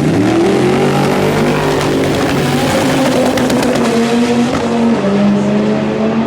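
Car engine revving hard, holding its pitch and then stepping up and down, with a run of sharp crackles about two to three seconds in.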